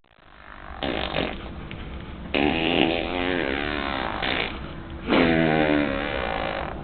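A baby blowing raspberries with his lips, making fart noises: a short one about a second in, then two long buzzing blows with a wavering pitch.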